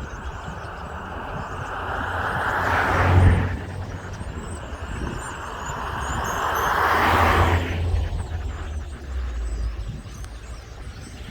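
Two vehicles pass by on a road, one about three seconds in and another about seven seconds in, each swelling up and dropping away, with faint bird chirps in the background.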